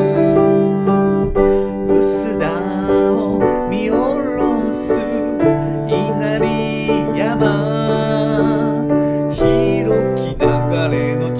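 Japanese ondo-style song sung to piano: steady held piano chords under a sung melody with vibrato.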